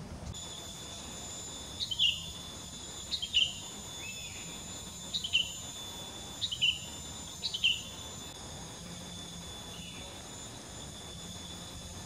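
A songbird giving five short, sharp down-slurred calls, each of two quick notes, over a steady high insect whine that stops about eight seconds in.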